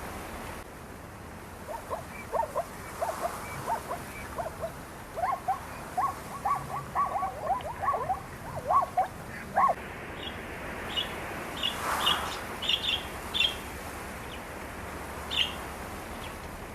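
A run of short, quick animal chirps, dense from about two seconds in to about ten, followed by fewer, higher-pitched chirps, over a steady background hiss.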